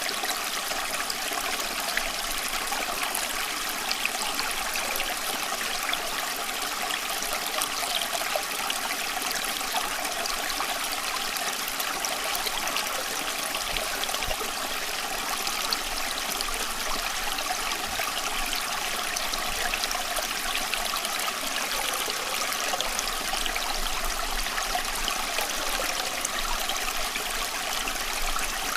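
Running water flowing steadily, an even rush full of fine splashing and trickling, unchanging throughout.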